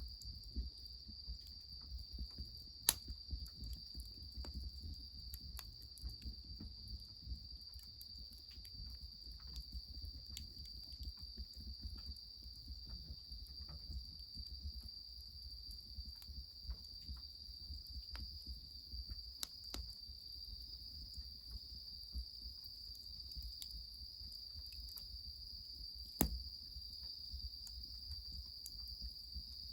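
Wood fire crackling under a goemon-buro bath, with scattered small snaps and two sharper pops, about 3 seconds in and near the end. Over it runs a steady high insect trill like a cricket's, with a low rumble beneath.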